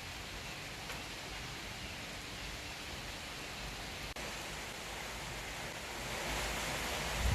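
Steady rain, an even hiss without tones, growing louder about six seconds in.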